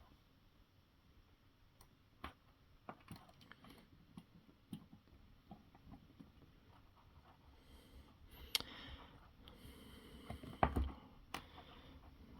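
Faint, scattered clicks and taps of small RC car parts and hand tools being handled during assembly, with a few louder knocks about two-thirds of the way in.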